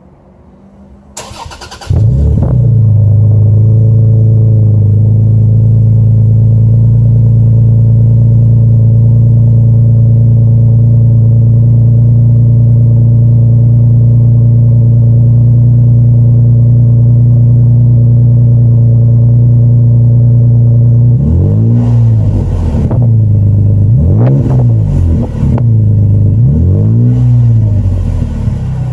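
Cold start of a 2016 Toyota Tacoma's 3.5-litre V6 through a custom exhaust with a Magnaflow muffler and Vibrant resonator: the starter cranks briefly, the engine catches about two seconds in and settles into a steady idle. About twenty seconds in, the throttle is blipped several times, each rev rising and falling back to idle.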